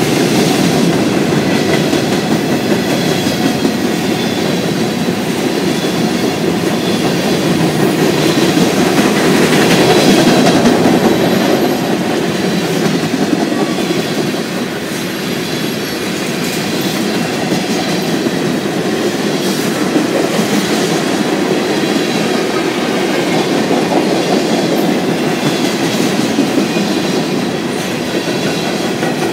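Freight train cars rolling past at speed: a steady rumble of steel wheels on rail, with wheels clicking over rail joints and a faint high wheel squeal at times. It swells a little about a third of the way in.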